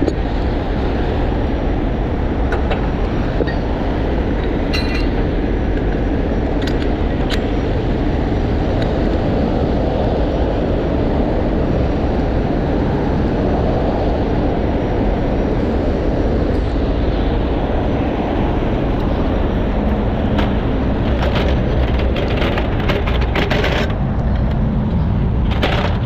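Heavy diesel engine running steadily, with a run of short metallic clicks and knocks near the end.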